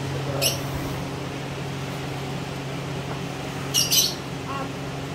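A few short, sharp bird chirps, one about half a second in and a quick pair near four seconds, over a steady low hum.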